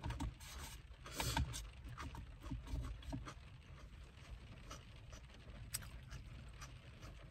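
Raw carrots being bitten and chewed, in irregular crisp crunches that are loudest about a second in, over a steady low rumble.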